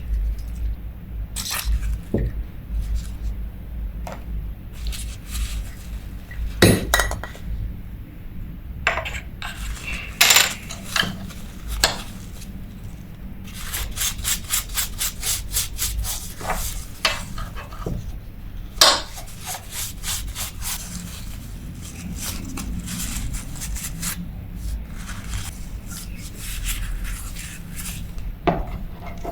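Small metal parts of a Daiwa 1000X spinning reel clinking and tapping as they are handled during disassembly, with a run of rapid, even clicks about halfway through.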